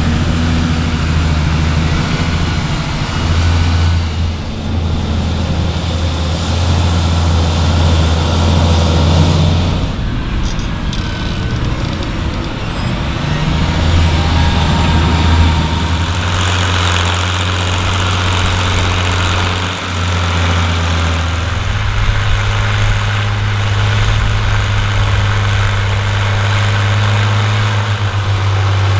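Heavy farm-machinery diesel engines running, as on tractors or combine harvesters, in several short stretches. The engine note changes abruptly about four times.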